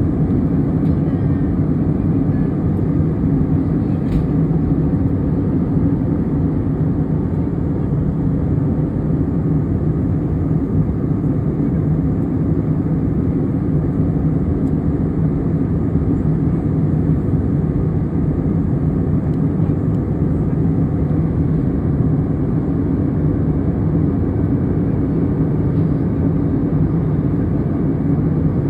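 Airplane cabin noise in flight: a steady, deep drone of engines and rushing air, heard from inside the cabin.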